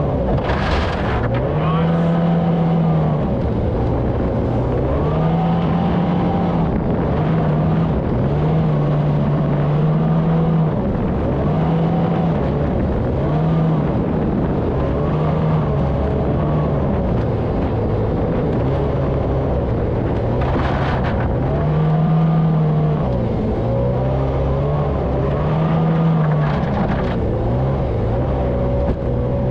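Jet boat engine running hard, its pitch rising and falling over and over as the throttle is worked up and down. A few brief hissing bursts come over it, about a second in, near 21 seconds and near 26 seconds.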